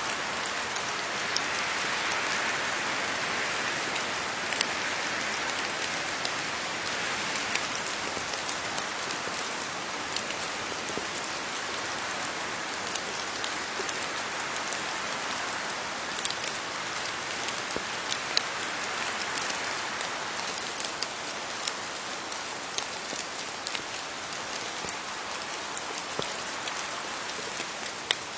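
Steady rain falling on leaves, a continuous patter with many distinct drop ticks.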